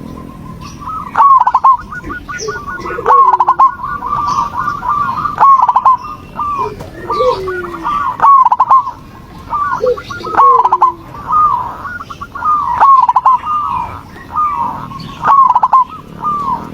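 Zebra doves (perkutut) singing, several birds overlapping: rapid stuttering trills running into ringing, hooked coo notes, repeated in loud phrases every one to two seconds, with lower coos between them.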